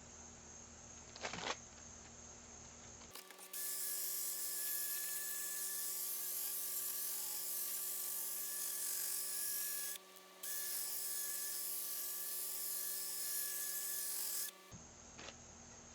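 Electric polisher running on a headlight lens with cutting compound: a steady motor whine with a hiss. It starts a few seconds in, cuts out for a moment about ten seconds in, and stops shortly before the end.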